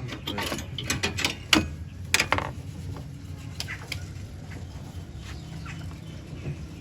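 Car engine idling with a steady low hum. Sharp metallic clicks and knocks sound over it in the first couple of seconds, then only a few faint ticks.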